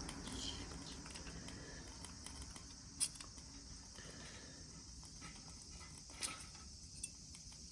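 Faint background hiss with three short, sharp clicks, about three seconds in, near six seconds and again a second later.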